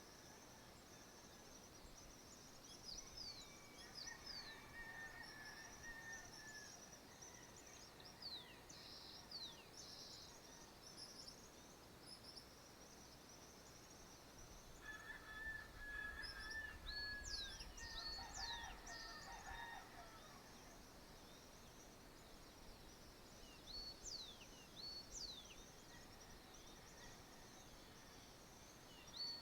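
Faint birdsong at dawn: many short, high chirps with quick falling notes throughout, joined about four seconds in and again midway, more loudly, by a longer, lower call from another bird.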